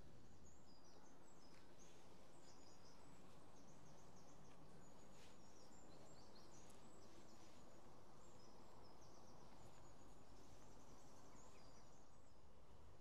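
Faint songbirds chirping and singing, many short high notes, over a steady low outdoor background noise.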